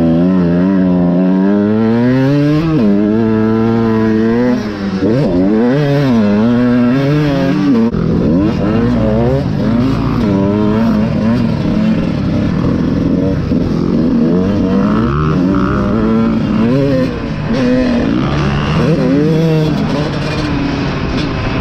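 Motocross bike engine revving hard and falling back over and over, pitch sweeping up and down as it accelerates, shifts and backs off around the track.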